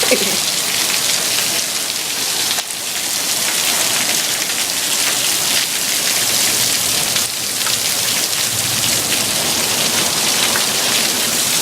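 Heavy rain pattering steadily and loudly, easing briefly about two and a half seconds in.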